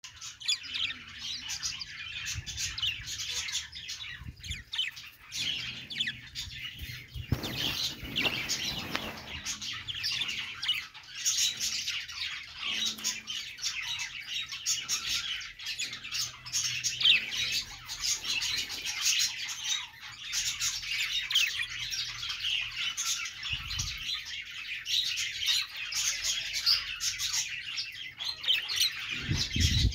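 Several budgerigars chirping and chattering continuously, many quick high calls overlapping, with a few brief low thumps now and then.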